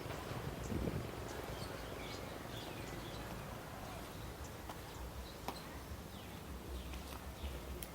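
Birds chirping faintly, short falling notes at scattered intervals, over a steady low rumble of outdoor background noise.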